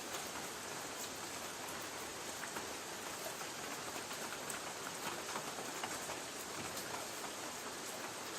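Light rain pattering on a tin roof: a steady hiss with many scattered, sharp drop ticks.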